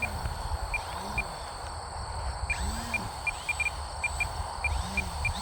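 Outdoor ambience: insects chirping in short high pips over a steady high insect hum, with wind rumbling on the microphone.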